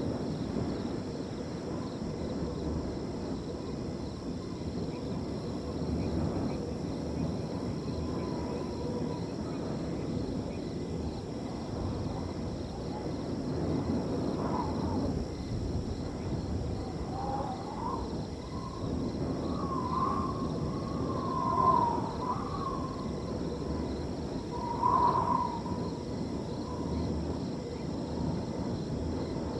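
Wind blowing across a field over a steady high trilling of crickets. A few short calls that waver in pitch come from an animal in the middle and later part, two of them standing out loudest.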